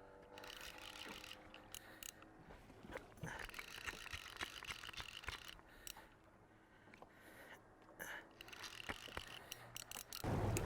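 Faint, irregular clicking and ticking of a fishing reel being cranked while a hooked tarpon is played.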